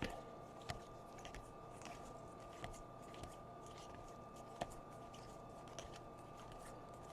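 Faint handling of baseball trading cards as they are flipped through one by one, with a few light ticks over a steady faint electrical hum.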